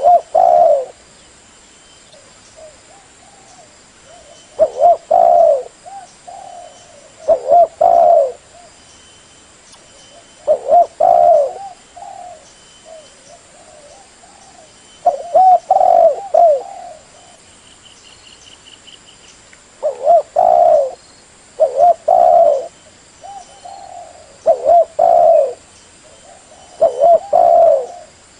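Spotted dove cooing, about nine short low phrases of a few coo notes each, repeated every two to five seconds.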